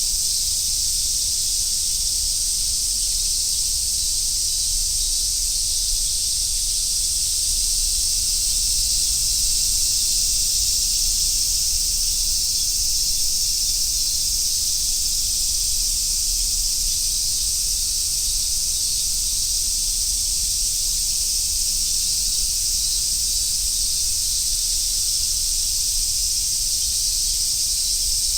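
Japanese summer cicadas, such as large brown cicadas, singing in a dense, unbroken, high-pitched hiss-like chorus that holds steady throughout.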